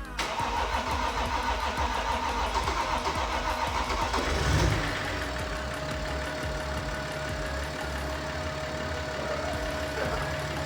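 BMW X5 M50d's 3.0-litre straight-six diesel being cranked by the starter with a steady whine for about four seconds. It then catches with a brief surge and settles into a steady idle. This is the first start of the rebuilt engine.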